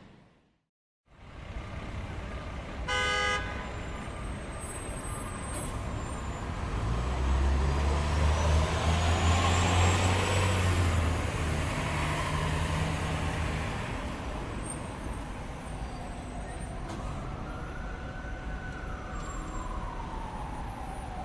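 Busy city street traffic: a car horn toots once briefly, a heavy vehicle's engine rumbles past as the loudest part, then an emergency siren begins wailing up and down near the end.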